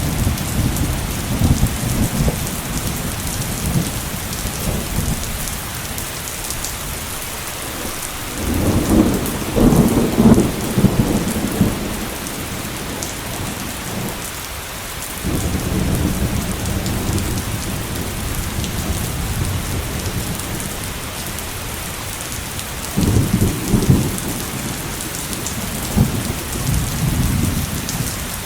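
Downpour of rain falling steadily, with thunder rumbling in rolling peals that swell loudest about a third of the way in and again near the end.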